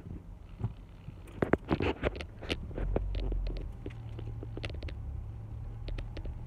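A vehicle's motor running with a low, steady hum that sets in about three seconds in, after a spell of scattered clicks and knocks.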